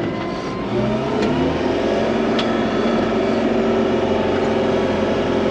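Vehicle engine revving up about a second in and then holding high revs under heavy load while pushing through deep snow.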